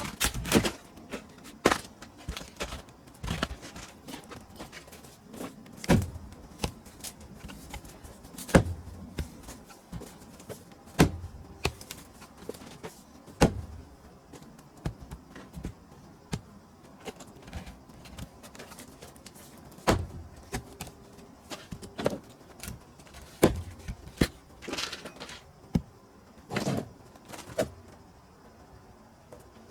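Hand tool strikes splitting pine firewood: a loud sharp blow about every two to three seconds, with smaller knocks and wooden clatter between them.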